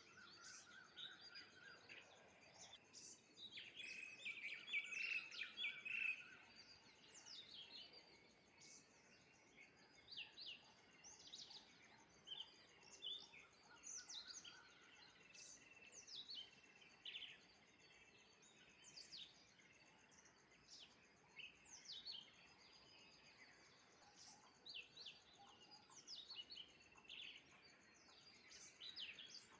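Small birds chirping faintly in many short, quick downward-sweeping chirps, a few each second, with a louder run of calls about three to six seconds in.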